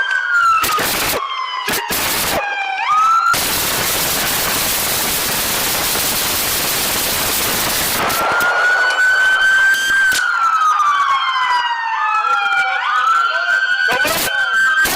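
Police car siren wailing, its pitch sweeping slowly up and down. It is broken by a few sharp cracks in the first couple of seconds and again near the end, and by a loud rushing noise from about 3 to 8 seconds in that drowns it out.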